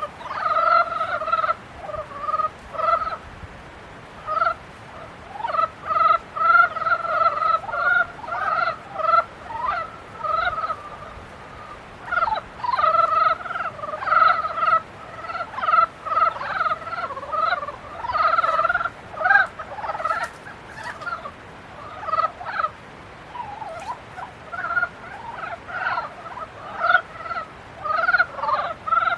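A chorus of male frogs giving breeding calls: many short, pulsed croaks overlapping and repeating, with a few brief lulls.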